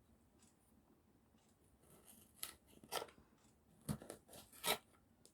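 Kitchen knife cutting vegetables on a cutting board: a few separate, sharp cuts in the second half, after a quiet start.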